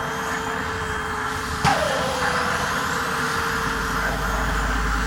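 Avro Vulcan's Bristol Olympus turbojets being air-started in quick succession, with rising turbine whines as the engines spool up. A sharp crack comes about a second and a half in, followed by a falling tone, and a low rumble builds near the end.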